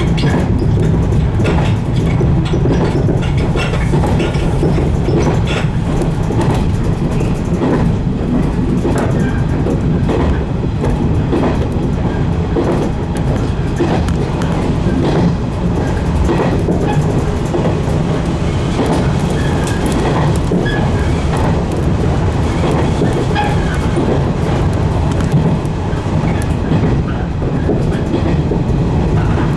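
A 115 series electric train running along the line, heard from the driver's cab: a steady, loud running noise of the traction motors and the wheels on the rails, with scattered clicks from the track.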